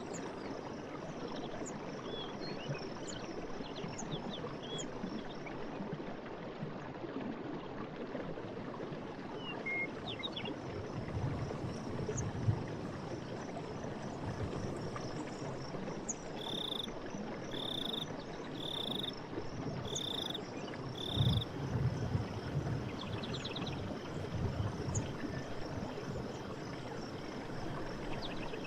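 Night forest ambience: frogs calling over a steady rush like running water. About halfway through come five short, high calls about a second apart, followed shortly by a brief rapid trill.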